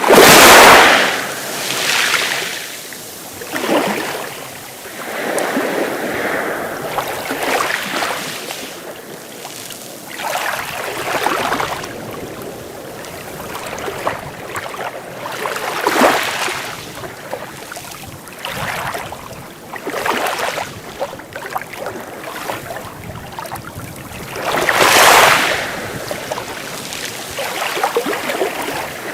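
Sea waves breaking and washing up the shore one after another every few seconds, the biggest crash right at the start and another about 25 seconds in.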